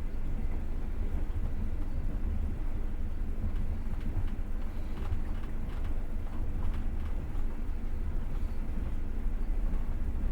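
Passenger train running, heard from inside the carriage: a steady low rumble of the wheels on the rails, with some light clicks and rattles near the middle.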